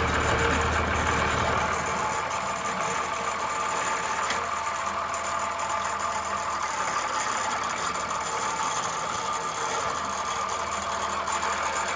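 Oliver 1650 tractor's six-cylinder diesel engine idling steadily.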